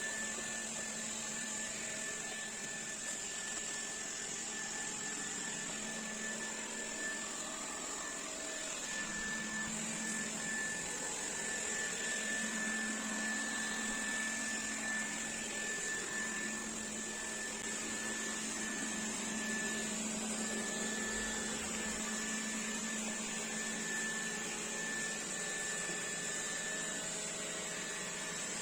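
Xiaomi Dreame D9 Max robot vacuum cleaner running steadily, a motor hiss with a thin high steady whine, and a low hum that swells and fades as it works.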